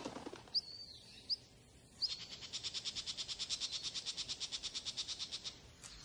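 Birds calling: a few short, sharp rising chirps in the first two seconds, then a fast, even trill of about ten notes a second lasting some three and a half seconds.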